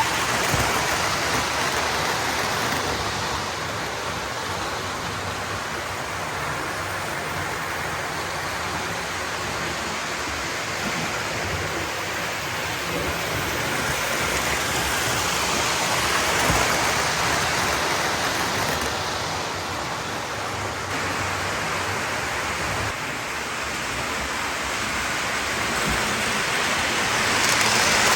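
Lionel O-gauge model train running on the layout track: a steady rolling rush of wheels on rail that swells and eases slowly as it goes around.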